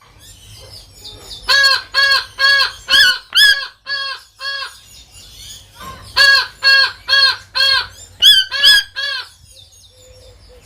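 A toucan calling: two runs of seven or eight short repeated calls, about two a second, with a short pause between the runs.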